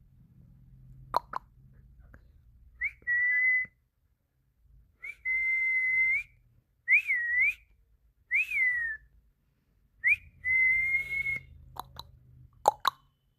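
A series of about six clear whistles: some held on one pitch for about a second, others with a quick up-and-down or falling glide. A few short sharp clicks come near the end.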